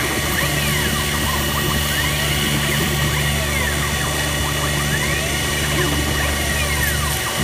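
A CNC-converted X2 mini mill running a G-code pocketing program: a steady motor hum with a higher whine that glides up and down in pitch over and over as the axes trace circular passes.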